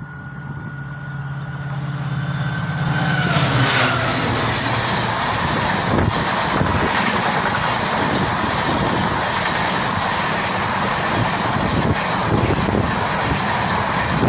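WDP4D diesel locomotive approaching and passing at speed. Its engine drone grows louder and drops in pitch as it goes by about four seconds in. Then comes the steady rush of the express's passenger coaches, with occasional wheel clacks.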